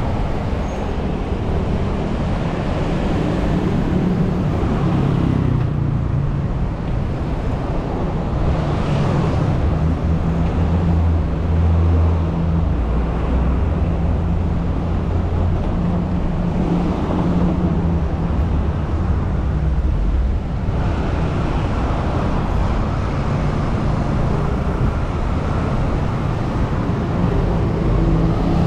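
City street traffic: motor vehicle engines running and passing, over steady road noise, with a low engine hum that swells and fades as vehicles go by.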